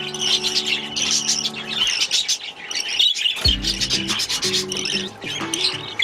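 Budgerigars chattering with rapid, busy chirps and squawks, over background music with held low notes that drop out briefly around the middle.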